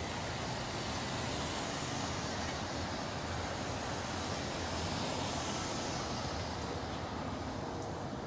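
Steady rumble and hiss of a passing motor vehicle, the higher hiss fading near the end.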